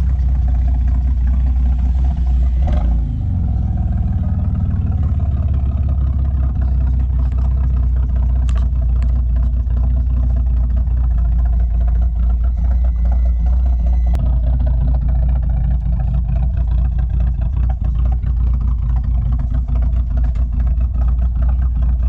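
A classic American car's engine running steadily at idle, with a deep, evenly pulsing note and a brief change in pitch about three seconds in.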